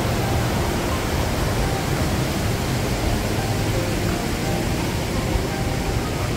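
Rushing water in a rocky mountain gorge, a steady, even roar.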